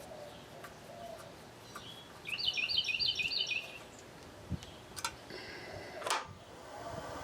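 A songbird chirping a quick run of about half a dozen repeated high notes for a second and a half, between a few faint clicks; a sharp falling swish comes near the end.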